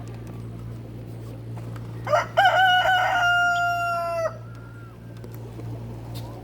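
A rooster crowing once, starting about two seconds in: a short rising start and then a long held note of about two seconds that cuts off. A steady low hum runs underneath.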